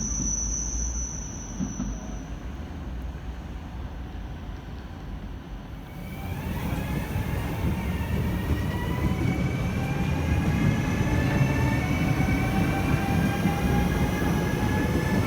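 A train moving through the station: a steady high-pitched tone for the first couple of seconds, then about six seconds in a growing rumble of the train with several whining tones that slowly climb in pitch.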